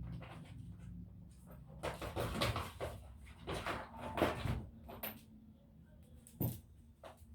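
Irregular clicks, knocks and rattles of laptop parts and plastic casing being handled during disassembly, in several short clusters with gaps between them.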